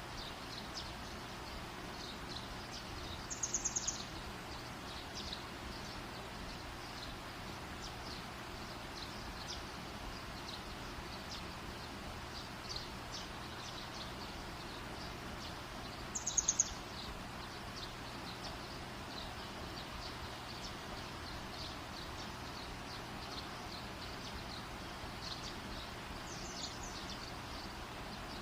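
Campfire burning with a steady hiss and many small high ticks, broken twice by a short, high trilled chirp, about 3 seconds in and again about 16 seconds in.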